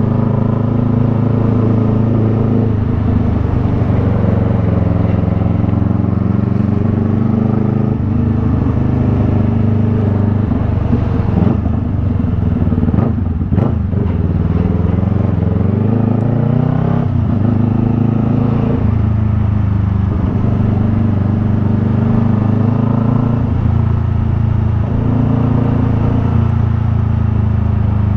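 Yamaha MT-03's parallel-twin engine through a Jeskap R3 Cup aftermarket exhaust, running steadily under way. About halfway through the revs drop with a brief clatter, then climb again over a few seconds before settling back to a steady pitch.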